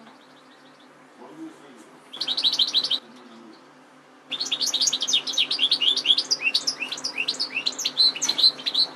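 European goldfinch singing: a short burst of rapid twittering about two seconds in, then after a brief pause a long run of fast, tinkling liquid notes lasting about four and a half seconds. A faint steady low hum sits underneath.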